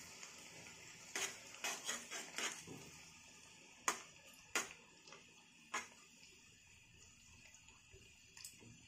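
Batter-coated peanut pakoras deep-frying in a kadai of oil, a faint steady sizzle, with a metal spatula clicking and scraping against the pan several times as the pieces are stirred apart on a medium flame.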